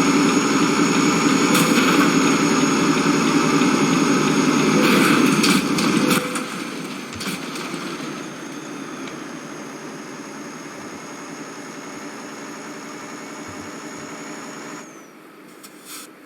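An engine running steadily, loud for the first six seconds and then quieter, with a thin high whine that slides down in pitch near the end.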